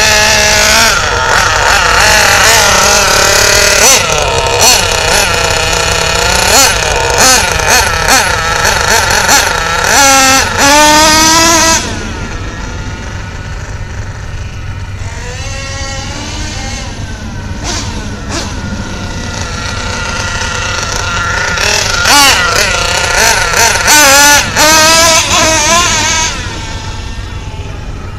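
Kyosho Mad Force RC monster truck's small nitro engine running and revving, its high note rising and falling again and again. Loud for the first dozen seconds, fainter through the middle, then loud again near the end.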